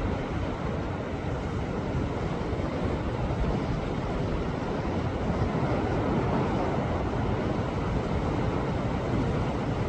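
Sea waves surging against a rocky shore: a continuous rushing wash that swells a little midway.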